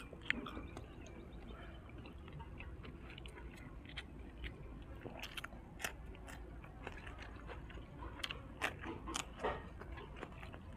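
A person chewing fried dried squid close to the microphone, with irregular crisp crunches and wet mouth sounds.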